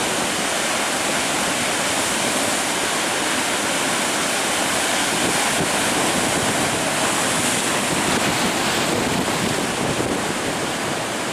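Big ocean waves breaking: a steady, unbroken wash of surf, with wind on the microphone.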